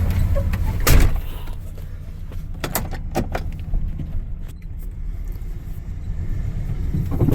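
Ford F-150 pickup engine idling with a low steady hum, with a knock about a second in and a scatter of sharp clicks and knocks a couple of seconds later.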